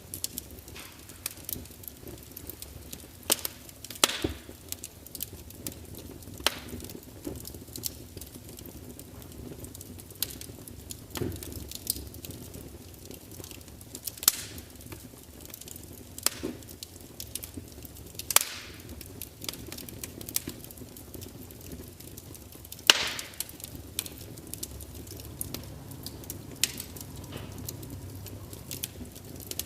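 Log fire in a large open fireplace crackling and spitting: irregular sharp snaps and pops, a handful of them much louder, over a low steady rush of flame.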